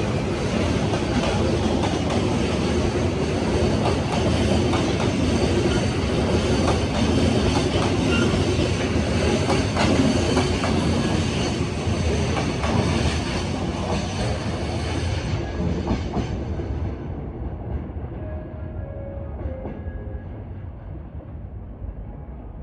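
Container freight train of Koki flatcars rolling past, wheels clattering over the rail joints. The sound fades away about three quarters of the way through as the end of the train passes.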